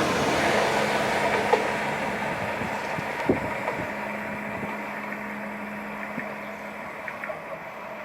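Renfe Cercanías electric commuter train pulling away, its running noise fading steadily as it moves off, with a steady low hum underneath and a few faint clicks.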